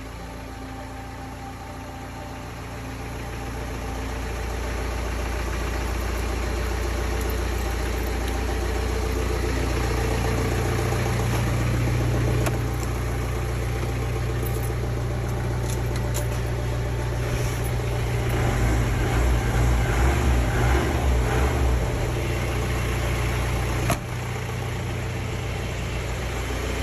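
Jeep engine idling after being started, with the vibration the owner puts down to a silencer that took a knock off-road. It grows louder over the first few seconds and runs louder and unevenly for a few seconds in the last third.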